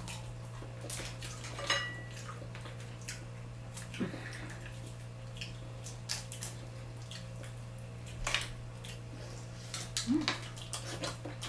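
Eating seafood up close: scattered clicks, cracks and smacks from shelling and chewing shrimp, with light clinks of dishes and cutlery. A steady low hum runs underneath.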